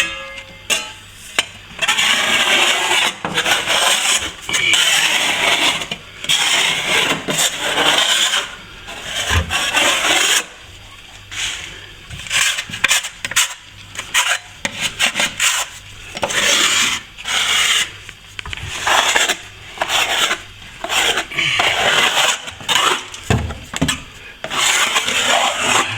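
Plaster being scraped back off a wall with a hand scraper, in repeated strokes about one every two seconds with small knocks between them.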